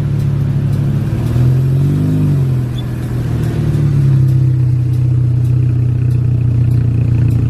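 Car engine running steadily, with a brief rev that rises and falls about two seconds in.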